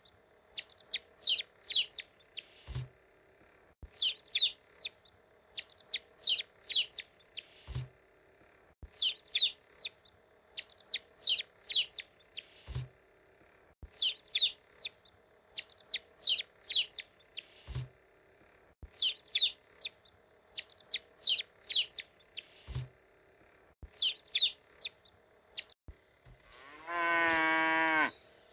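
Chickens peeping: groups of short, high-pitched, downward-sliding peeps in quick runs, the same stretch repeating about every five seconds with a faint thump at each repeat. Near the end a single louder, longer, full-toned animal call comes in.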